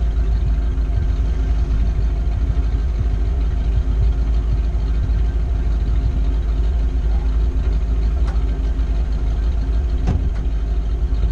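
Jeep engine idling steadily, a deep rumble with an even drone, with two faint clicks near the end.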